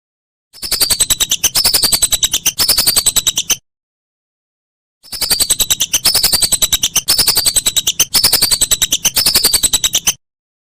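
Whistling duck (belibis) calling: rapid, high whistled notes in short phrases that each slide downward in pitch. A first bout starts about half a second in and lasts about three seconds; after a silent gap of about a second and a half, a second bout runs about five seconds and stops abruptly.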